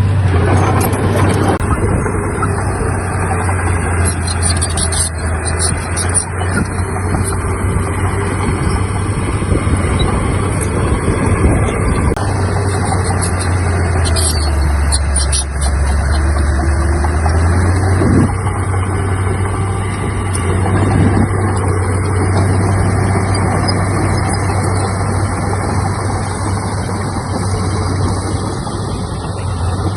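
Heavy diesel earthmoving machinery running loud and steady, its low engine note sagging in pitch for a couple of seconds about halfway through as it takes load, then picking back up.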